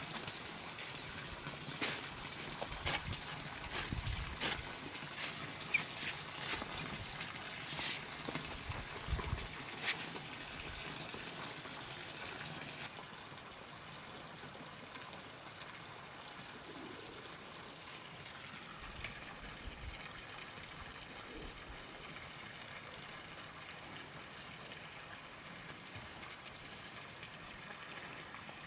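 Trickling water with scattered knocks and clicks. About thirteen seconds in it changes abruptly to a quieter, steady hiss.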